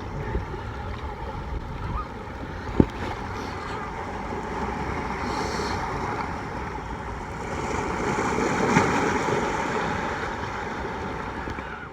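Steady rush of waves and wind buffeting the microphone, swelling louder about eight seconds in, with one sharp knock near three seconds.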